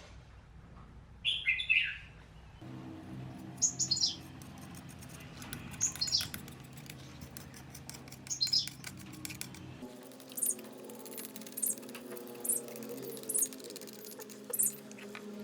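Birds chirping in short, high calls, about one a second in the later part, over a steady low hum.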